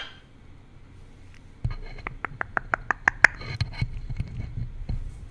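A pet bird's beak working at the microphone: a sharp click at the start, then from about a second and a half in a low rubbing rumble of contact with the mic, a quick run of about nine sharp clicks at roughly seven a second, and scattered further taps.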